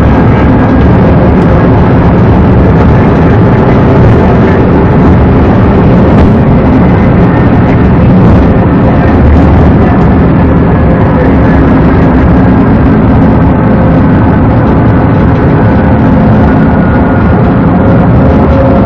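Vehicle driving at speed: steady, loud engine and road noise with no pauses.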